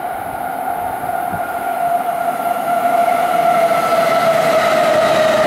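An electric commuter train running past, getting louder. Its motors give a steady whine that slowly drops in pitch.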